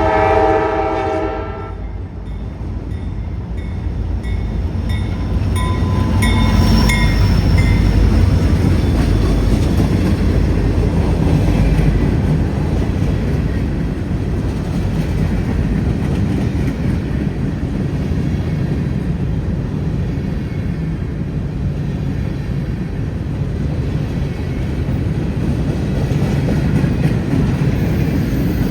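Diesel locomotive horn sounding its chord and cutting off about a second and a half in. A Norfolk Southern freight train then rumbles steadily past, its wheels clicking over the rail joints.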